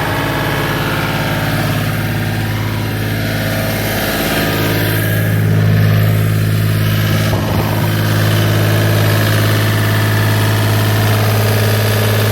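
Gehl 4635 skid steer's air-cooled Deutz diesel engine running steadily at idle, still a little shaky at idle after new engine mounts, which the owner says could be a plugged fuel filter or a failing injector or injection pump starving it of fuel at idle. It swells briefly in level around six seconds in.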